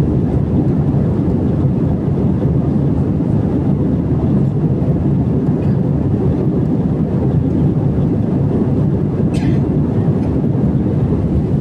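Airliner cabin noise: a steady, loud rush of engines and airflow heard from inside the passenger cabin, with a brief click about nine seconds in.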